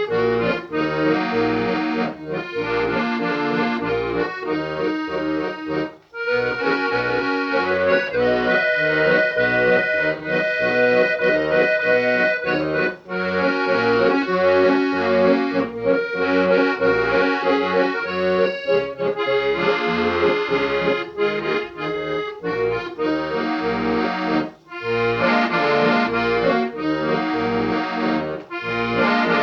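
Accordion music: a tune of held chords over a pulsing bass, with short breaks between phrases about six seconds in and again near the end.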